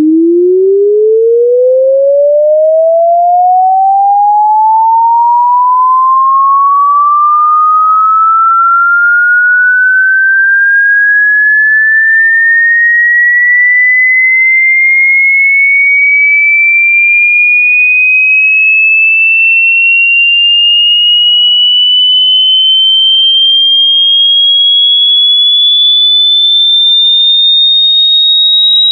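A pure electronic sine tone sweeping slowly and smoothly upward in pitch, from a low hum to a high whistle-like tone, at a steady loud volume.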